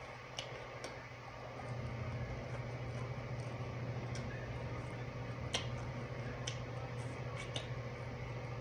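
Eating sounds of someone chewing sauce-covered chicken wings and pulling the meat off by hand: scattered soft wet clicks and smacks over a steady low hum.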